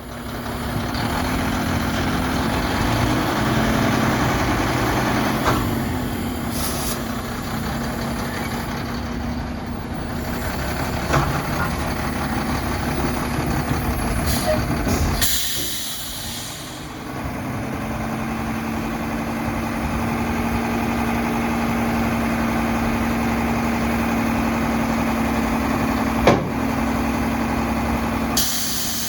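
Front-loader garbage truck working, its diesel engine running with a steady whine over the rumble. About halfway through there is a short burst of air hiss, and near the end a single sharp knock.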